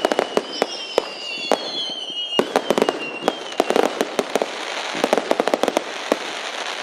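Firework display: rapid sharp bangs and cracks, with wavering whistles from whistling fireworks for the first two seconds or so, then a dense crackling hiss of crackle-effect shells.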